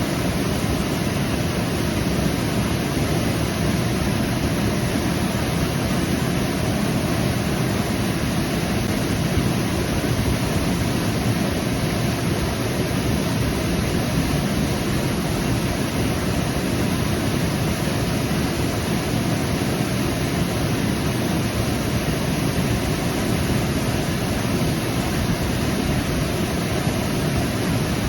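Waterfall rushing and splashing in a steady, unbroken roar of water.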